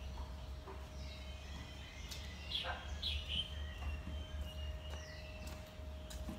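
Birds chirping: several short, falling chirps, most of them in the middle, over a steady low rumble and a faint steady hum.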